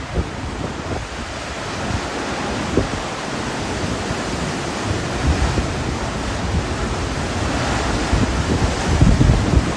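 Hurricane wind blowing hard in gusts, buffeting the microphone, heaviest about five seconds in and again near the end.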